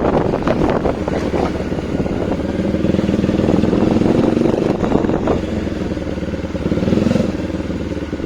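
Bajaj Dominar 400's single-cylinder engine, fitted with an aftermarket exhaust, running as the bike is ridden, with wind on the microphone. The engine note rises a couple of seconds in and drops around five seconds in.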